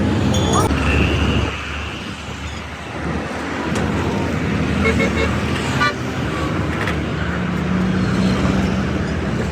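Road traffic with vehicle engines running, and a short horn toot about a second in.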